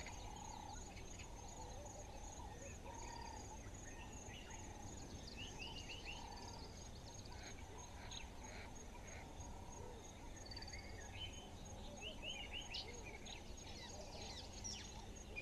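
Faint birdsong: short chirps and whistles scattered throughout, over a steady high hum and quiet outdoor background.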